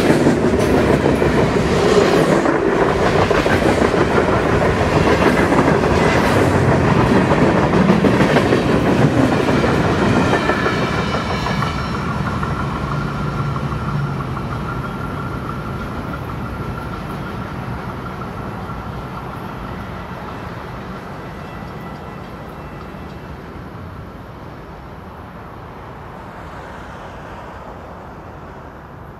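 A train passing at close range: railcar wheels clicking over rail joints, loud for the first ten seconds or so, then fading steadily as the train moves away.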